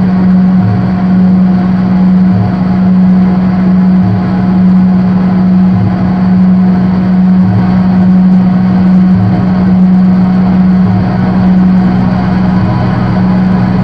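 Synthesizer drone: a loud, steady low hum under a noisy haze, with a deeper tone pulsing roughly every two seconds. Near the end the deeper tone settles into a second steady hum.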